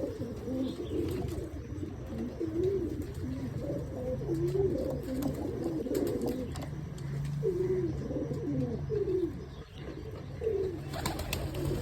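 Pigeons cooing: a steady run of low, wavering coos, each rising and falling, one after another with some overlapping.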